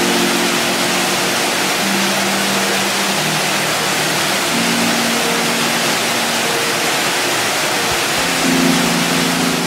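Steady rush of falling water from a waterfall, with soft music of held low notes changing every second or two over it.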